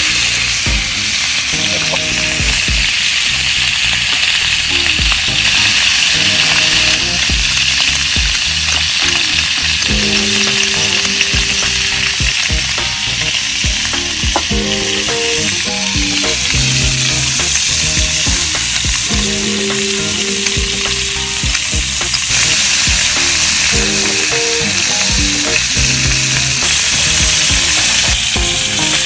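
Meat sizzling steadily as it fries in a hot pan, a loud continuous crackling hiss.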